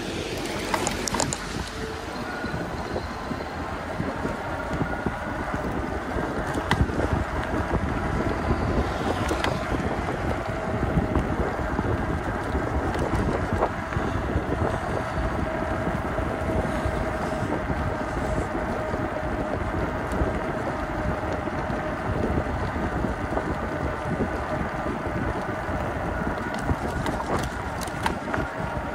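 Wind buffeting the microphone and road noise of an electric bicycle riding along wet streets, with a faint steady whine.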